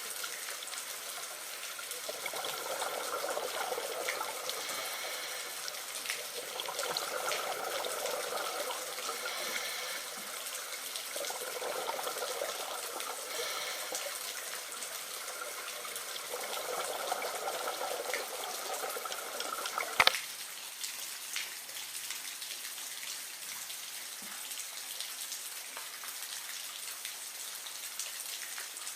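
Running water trickling and splashing, swelling and easing over several seconds. A sharp click about two-thirds of the way through, after which the water settles to a smoother, quieter hiss.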